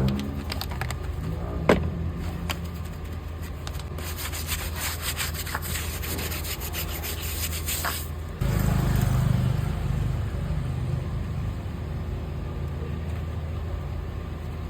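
Rubbing and scraping of hand car-washing work on a car, with scattered clicks and a knock, over a steady low hum that suddenly grows louder about eight seconds in.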